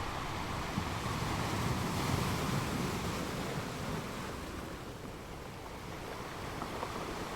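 Ocean surf washing on a beach: a steady rush of water that swells about two seconds in and eases off again about five seconds in.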